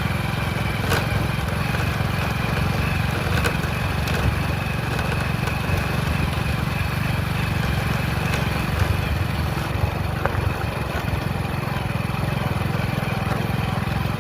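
Motorcycle engine running steadily while riding, a continuous low rumble with no marked revving.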